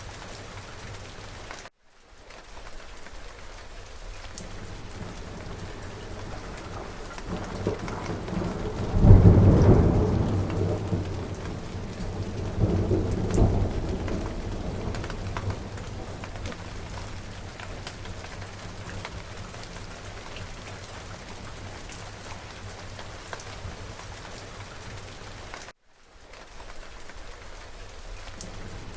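Steady rain with a roll of thunder: the rumble builds about eight seconds in, peaks at about nine seconds, swells again around thirteen seconds, then dies away under the rain. The rain cuts out for an instant twice.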